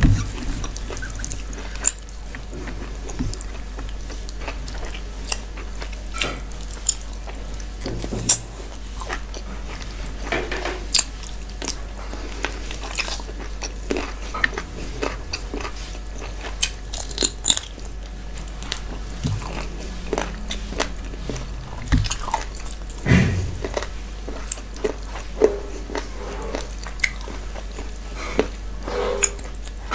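Close-miked chewing and biting of mutton curry and rice eaten by hand, with short, irregular wet clicks and smacks, and the squish of fingers mixing rice and curry on the plate. A steady low hum runs underneath.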